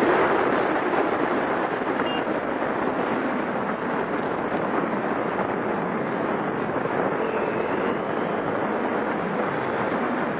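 Steady rushing wind and road noise from a moving vehicle, with no distinct events.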